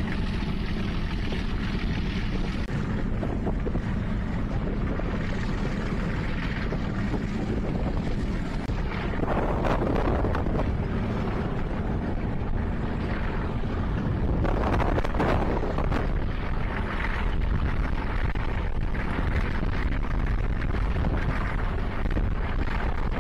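Passenger train running along the track, a steady rumble and rush with wind buffeting the microphone held out of the coach window. The noise swells a couple of times, about ten and fifteen seconds in.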